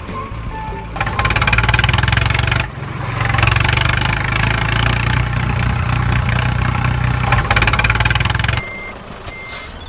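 Tractor engine running hard under load, dipping briefly about three seconds in, then dropping back near the end, when evenly spaced high beeps like a reversing alarm begin.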